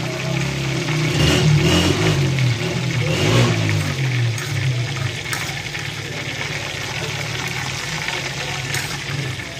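Steady background din of a busy street-food shop, with a low rumbling hum that wavers in pitch over the first four or five seconds.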